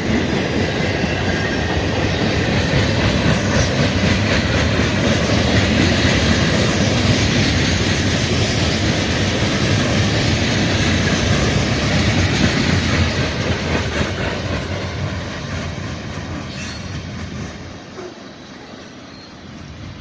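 Freight train cars rolling past on the rails, loud and steady, then fading away over the last several seconds.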